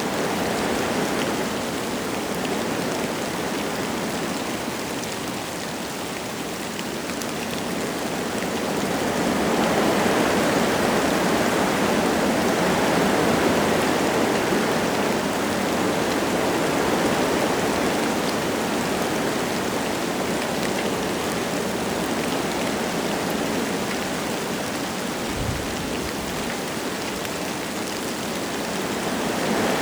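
Wind gusting through forest trees, with light rain falling: a steady rushing noise that swells into a stronger gust about 8 seconds in and slowly eases off. A brief low thump comes near the end.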